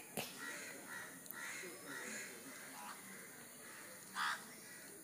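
Faint background with a few distant bird calls, and one louder short call about four seconds in.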